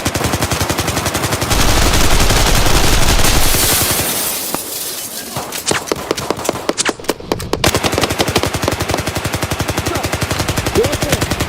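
Sustained automatic gunfire, rapid shots packed many to the second. A louder, deeper stretch of fire runs from about a second and a half in to about four and a half seconds.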